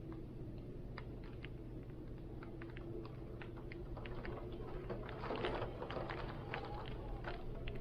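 Rain with steady wind rumble underneath, drops ticking irregularly on a hard surface and thickening into a brief denser spatter about five seconds in.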